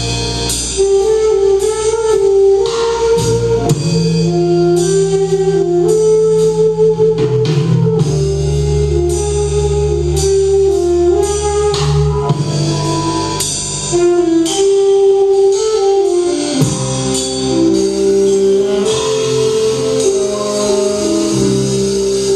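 A band playing live: drum kit and guitar over a low bass line, with a held melody line that steps from note to note above them.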